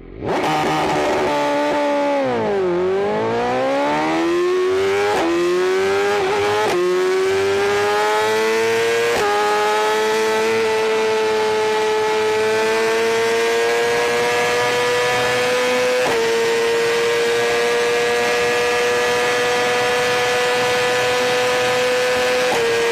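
Motorcycle engine at high revs. It drops in pitch sharply about two seconds in, then climbs back up through several quick gear changes and holds a steady high-pitched drone, with two brief steps in pitch later on.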